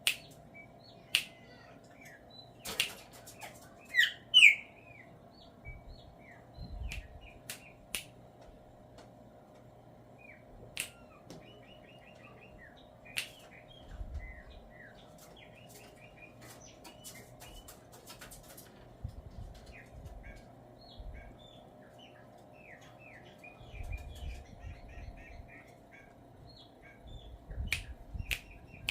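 Chopi blackbird in its normal song: a scattered run of short chirps and whistles mixed with sharp clicks, loudest in the first few seconds, over a steady low hum.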